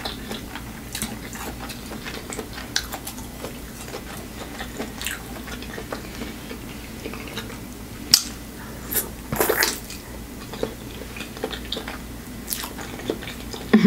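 Close-miked chewing and wet mouth smacks of someone eating boiled egg, with scattered small clicks and a few louder smacks past the middle.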